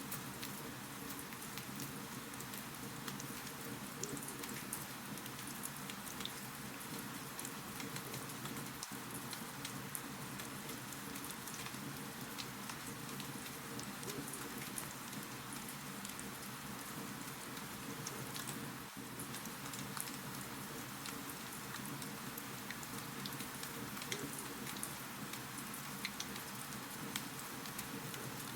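Wood fire crackling steadily: frequent small pops and snaps over a constant soft hiss.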